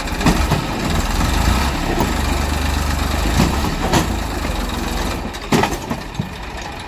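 Heavy diesel engine running steadily, with several sharp knocks over it.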